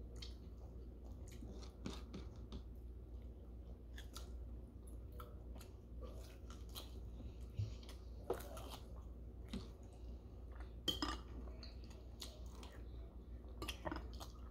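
Close-up chewing and biting on barbecue ribs eaten by hand: faint, scattered wet mouth sounds and small clicks, with a few louder ones about eight, eleven and fourteen seconds in, over a low steady hum.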